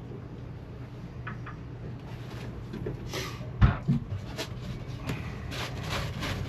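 Hand tools and engine parts being handled, with scattered clicks and knocks and one sharp knock about three and a half seconds in, over a steady low hum.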